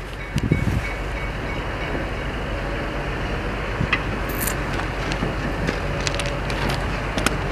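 Train running on the rails: a steady rumble with a few scattered light clicks and knocks from the wheels and track.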